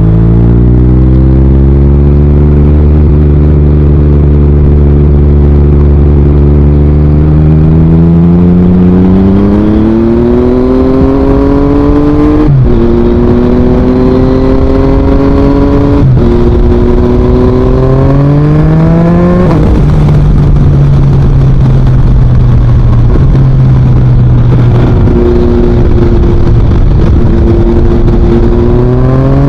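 2023 Yamaha MT-09's inline-three engine through an Akrapovič full exhaust, under way: holding steady revs, then accelerating through three quick upshifts, each a sudden drop in pitch followed by a rising climb. It then settles to steadier revs, with the revs rising again near the end.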